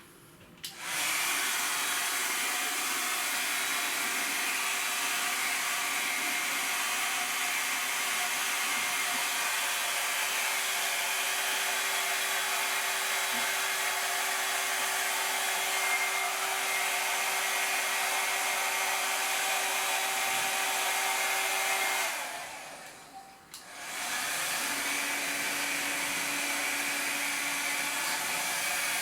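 Hand-held hot-air blower running steadily with a faint motor hum. It switches off about 22 seconds in and comes back on about two seconds later.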